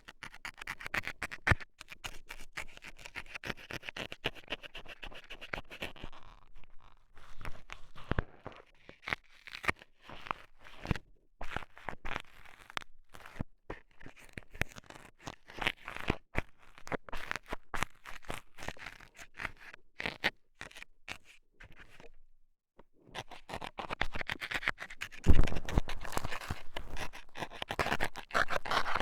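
Dental scaler scraping and poking at the ear of a binaural ear microphone: a fast, dense run of scratches and clicks with two short pauses, turning into heavier, louder strokes with low thuds near the end.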